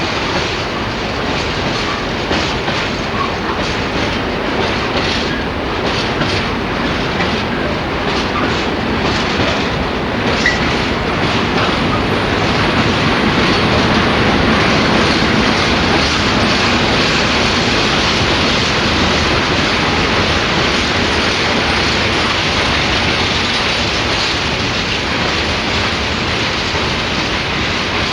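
Train rolling past with its wheels clattering over rail joints in a steady rhythm of clicks. The rolling noise builds to its loudest about halfway through and then holds steady.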